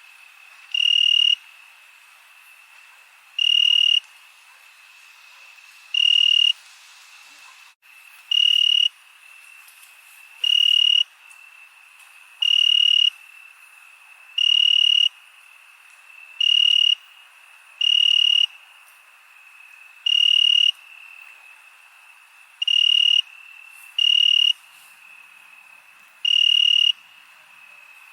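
Night insect chorus: a close cricket trilling in loud, high-pitched bursts of about half a second, roughly every two seconds, over a steady high insect drone. The sound briefly drops out for an instant a little before the middle.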